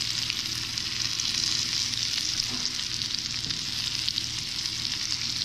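Breaded fish fillets shallow-frying in butter and olive oil in a skillet: a steady sizzle with fine crackles.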